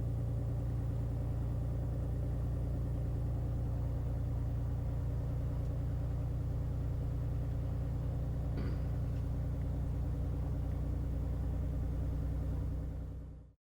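Beechcraft Bonanza's piston engine running steadily at low taxi power, heard from inside the cockpit as a constant low drone. It fades out shortly before the end.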